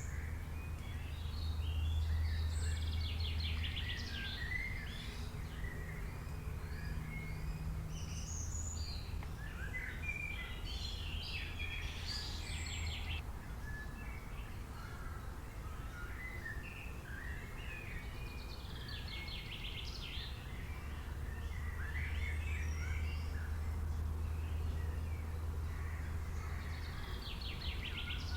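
Several wild birds singing and calling together, with short chirps and whistles and a fast trill that comes back about every eight seconds. A steady low rumble runs underneath.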